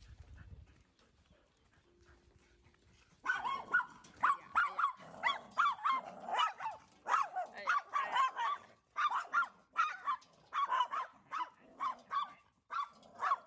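A dog barking over and over, about two to three barks a second, starting about three seconds in.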